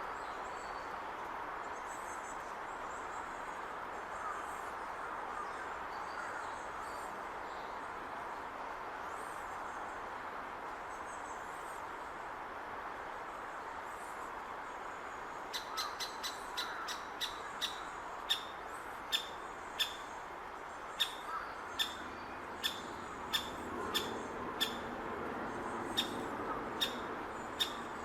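Great spotted woodpecker giving sharp, short 'kik' calls at about one a second, starting about halfway through, over a steady background hum and faint high chirps of other birds.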